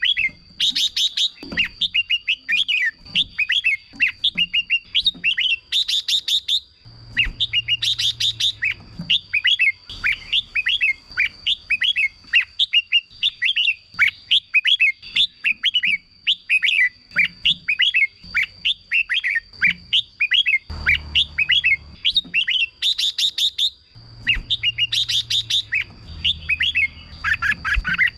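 Red-whiskered bulbuls singing, a fast, nearly unbroken run of short whistled chirps with a few louder phrases. A steady high-pitched whine runs underneath.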